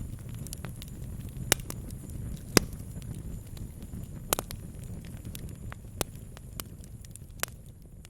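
Wood campfire crackling: irregular sharp pops and snaps, the loudest about a second and a half and two and a half seconds in, over a steady low rumble.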